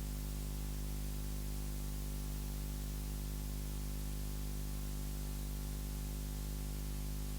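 Steady electrical hum with a constant hiss beneath it, holding level with no change.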